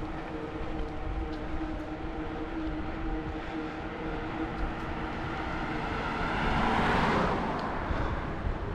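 A motor vehicle passing close by, growing louder to a peak about seven seconds in and then fading, over steady wind noise on the microphone.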